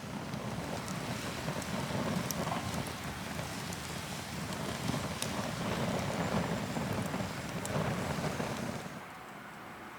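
Wind buffeting the microphone, a rough low rumble that swells and fades, with scattered small sharp crackles; it drops away about nine seconds in.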